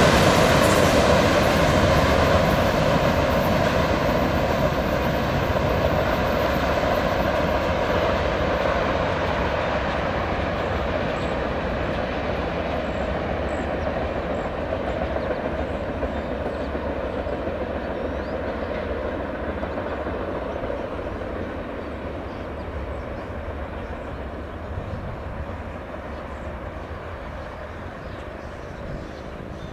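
CSX freight train's cars rolling on the rails as the end of the train moves away, the sound fading steadily and its high end dying out first.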